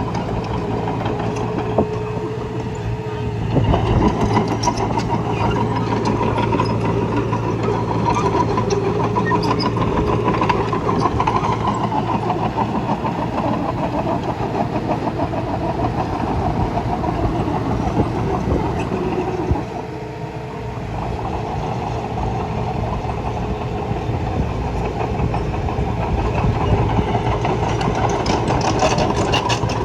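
Bulldozer's diesel engine running steadily with a constant rattle. It gets louder about three and a half seconds in and eases off briefly around twenty seconds.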